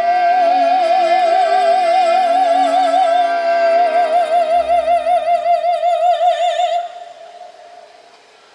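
Operatic singer holding one long high note with wide vibrato over a sustained orchestral accompaniment. The accompaniment drops away and the note ends about seven seconds in, leaving a brief quiet stretch.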